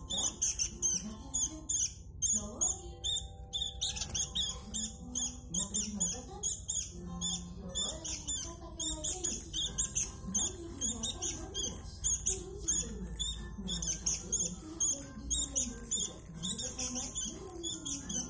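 Sooty-headed bulbul chirping rapidly in short high notes, several a second, over a slow chanted melody sung low in the background: a call to prayer.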